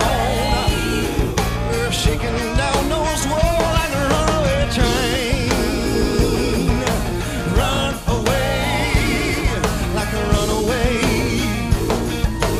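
Band playing an up-tempo gospel rock song with a steady drum beat, with a wavering vocal or lead-guitar line on top.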